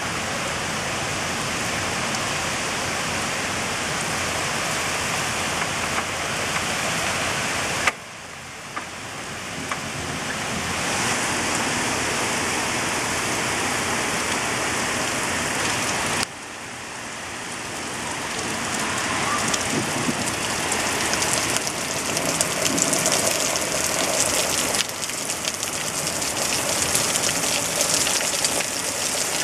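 Heavy rain pouring down in a steady hiss on lawn, pavement and street. The sound drops off abruptly twice and swells back, and in the later part it is louder, with crisp spatter from nearby drops.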